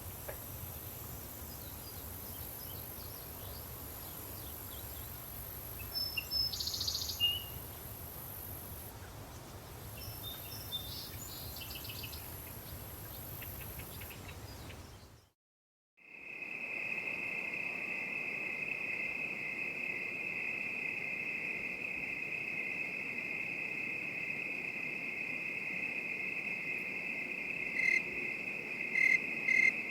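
Country ambience: a low distant rumble, a steady high insect drone and a few bird chirps. Halfway through it cuts to a second of silence, then a steady chorus of crickets begins, pulsing in chirps near the end.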